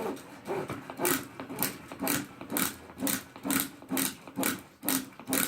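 Starter string of a homemade lawnmower yanked over and over, about two pulls a second, each pull a short rasping stroke; the engine does not catch.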